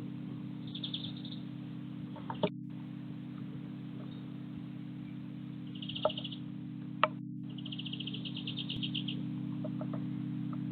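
Small songbirds chirping in short, rapid trills, the longest near the end, with three sharp taps in between, over a steady low hum.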